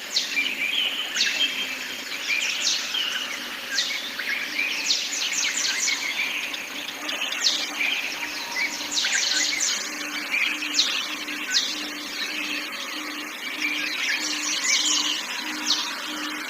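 Several wild birds singing and chirping, with quick high notes that sweep downward, overlapping one another throughout. From about seven seconds in, a low note pulses evenly beneath them, a little under twice a second.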